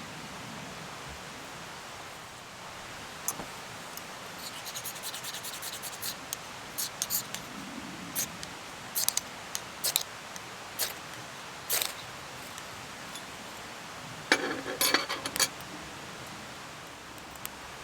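Handling noises: irregular short clicks and scrapes, loudest in a quick cluster near the end, over a steady background hiss.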